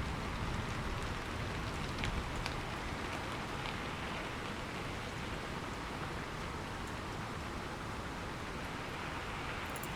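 Steady rain falling, an even hiss with a few individual drops ticking in the first few seconds.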